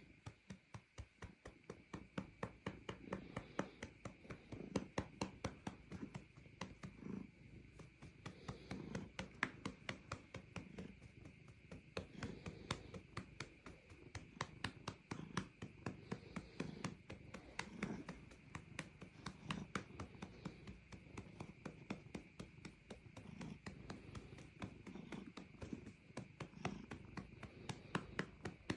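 A hand patting a cat's rump in a quick, steady rhythm of light slaps, several a second, while the cat purrs underneath.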